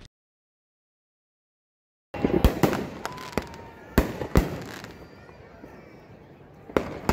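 About two seconds of silence, then aerial fireworks going off. There is a quick run of sharp bangs and pops, then quieter crackle, and one more bang near the end.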